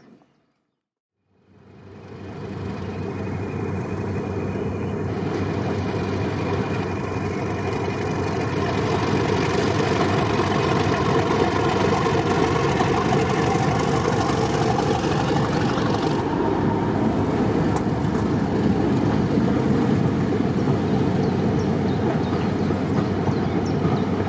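Diesel locomotive running, growing louder over the first several seconds as it draws near, then holding at a steady loud level.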